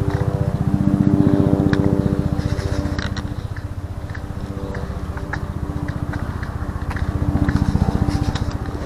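A small engine running steadily with a fast, even pulse. It grows louder about a second in and again near the end, with a few light clicks over it.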